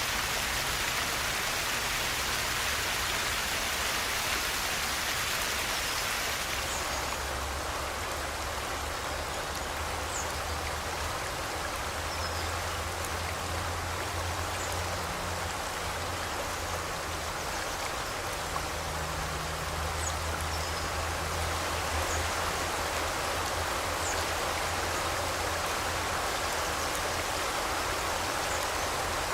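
River water rushing steadily, with faint, scattered short bird chirps from about seven seconds in.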